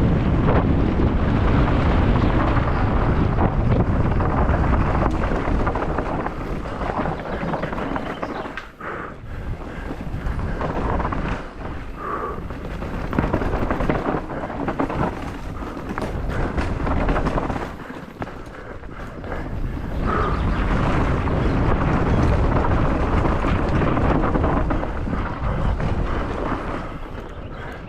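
Wind buffeting the on-board camera microphone during a fast mountain-bike downhill race descent, a heavy low rumble that rises and falls with speed, broken by occasional knocks and rattles from the bike over rough ground.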